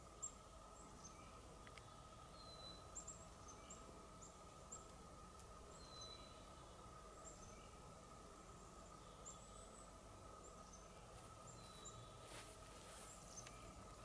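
Faint, thin, high chirps of small forest birds, scattered singly and in quick pairs throughout, with a few longer sliding notes a little lower. A faint steady hum runs underneath.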